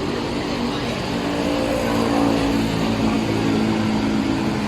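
A motor vehicle's engine running over road noise, its hum strengthening and rising slightly in pitch from about a second in.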